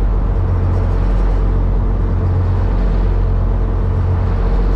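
Engines of a high-speed passenger boat under way, a steady loud low drone with water and hull noise over it.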